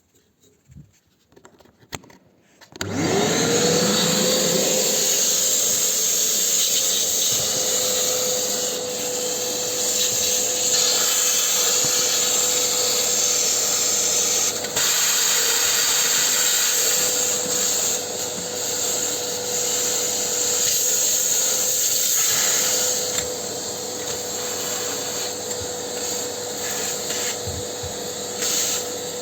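Vacuum cleaner switched on about three seconds in, its motor whining up to a steady pitch and then running steadily with a rush of air, sucking up leftover putty dust.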